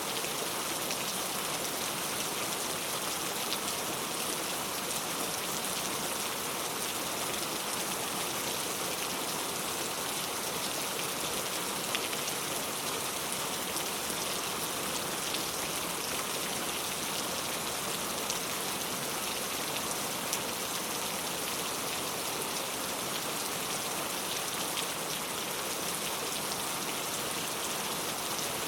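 Heavy rain falling steadily, a dense even hiss of drops with faint scattered individual drop ticks.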